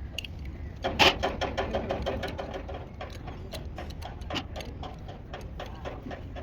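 A sharp knock about a second in, then a run of quick mechanical clicks, several a second, that thin out toward the end.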